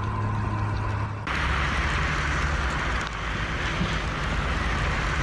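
A steady vehicle rumble with a hiss over it. About a second in the sound changes abruptly to a louder, hissier rush over the low rumble.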